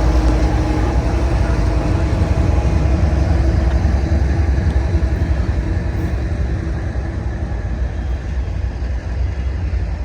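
Freight train passing close by: a steady, loud low rumble that eases a little in the second half.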